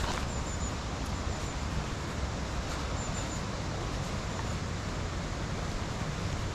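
Steady rushing noise of the river through the gorge, with wind buffeting the microphone in a fluctuating low rumble. A few faint high chirps come about half a second in and again around three seconds in.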